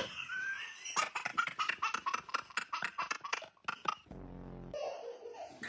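A person laughing in a rapid run of short bursts, several a second, that starts about a second in and stops near the end.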